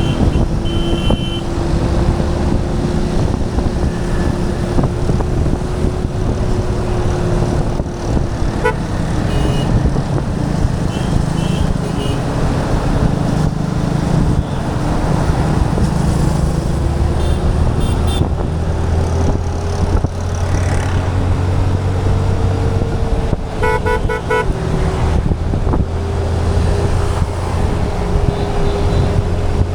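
Motorcycle engine running steadily on the move through city traffic, its tone drifting slowly up and down over a rumble of wind and road noise. Other vehicles toot their horns briefly several times, the loudest honk about three-quarters of the way through.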